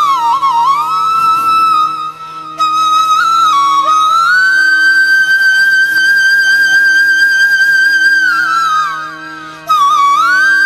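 Background flute music: a solo flute plays ornamented runs, then long held notes over a steady drone.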